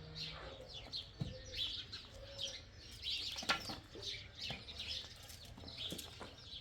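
Small birds chirping in short, scattered calls, with a few sharp knocks.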